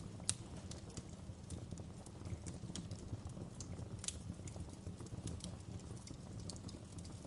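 Wood fire crackling in a fireplace: irregular sharp pops and snaps, with two louder pops, one near the start and one about four seconds in, over a steady low rumble of the burning fire.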